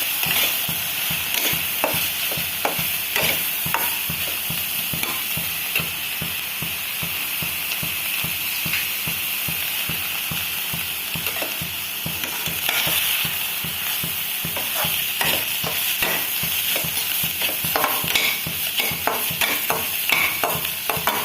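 Ground chicken and onions sizzling in oil in a kadai while being stirred, with steady frying hiss and frequent short scrapes and taps of the spatula against the pan.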